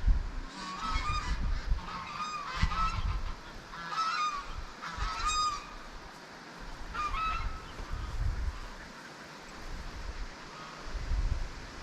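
Domestic geese honking, a run of short nasal calls in bunches that fade out towards the end. Wind gusts buffet the microphone underneath with a low rumble.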